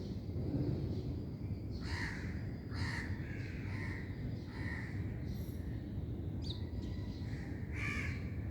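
Crows cawing, a string of short harsh caws about every half second to second, with a brief high bird chirp in between, over a steady low background hum.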